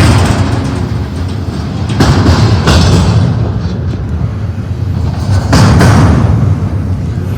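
Double-stack container train's freight cars rolling past, a steady low rumble of wheels on rail with louder, hissing surges every two to three seconds.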